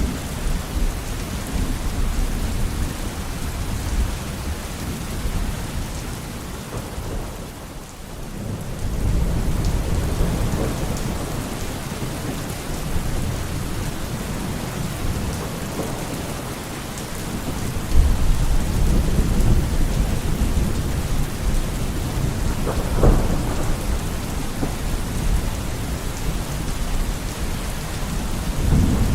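Steady heavy rain with rolling thunder, the rumble swelling and fading. A sudden louder surge comes a little past halfway, and a sharp crack of thunder follows a few seconds later.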